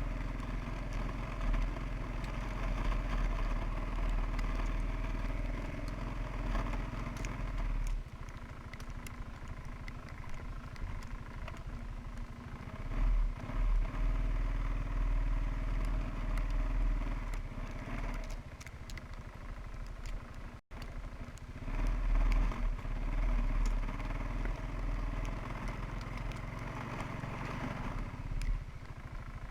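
Suzuki QuadRunner 300 ATV's single-cylinder engine running while the quad is ridden through deep snow, the revs rising and easing off several times. The sound drops out for a split second about two-thirds of the way through.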